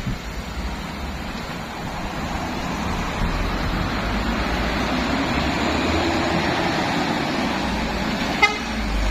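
Truck engine running, a steady noise that grows louder over the first several seconds, with one sharp click near the end.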